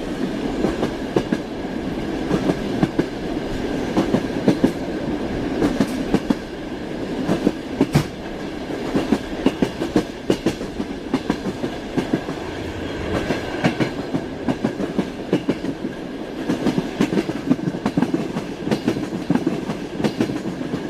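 Moving train: a steady rumble with frequent sharp knocks of the wheels running over rail joints, and a faint steady whine over it.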